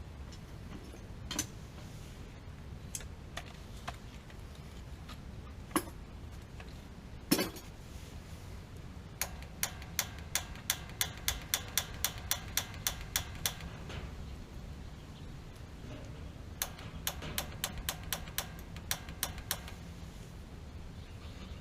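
Two runs of quick, sharp clicks, about three to four a second, with a few single knocks before them.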